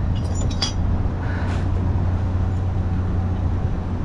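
A few light clinks of glass jars being handled about half a second in, over a steady low rumble of wind on the microphone.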